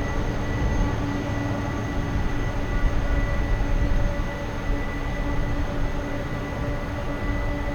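Jet aircraft engines running steadily: a constant low rumble with several steady whining tones over it.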